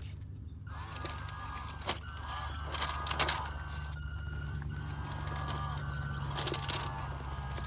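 Small RC crawler's brushed electric motor whining in short bursts, its pitch wavering as the throttle is worked, with sharp clicks and knocks from the little truck on the terrain.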